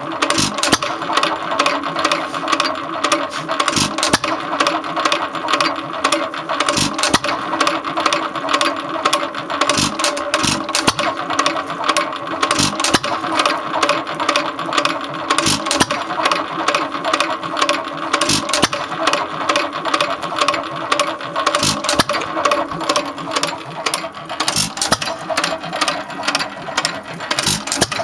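1.5 hp Hercules hit-and-miss stationary engine running, with a steady mechanical clatter and a louder sharp beat every few seconds as it fires, then coasts on between firings.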